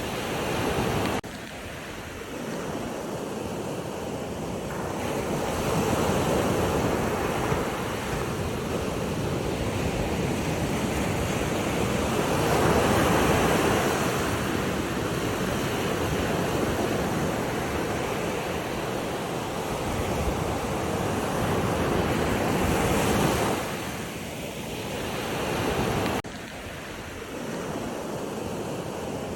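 Sea waves washing in and ebbing away in slow swells, with wind on the microphone. The sound drops abruptly about a second in and again near the end.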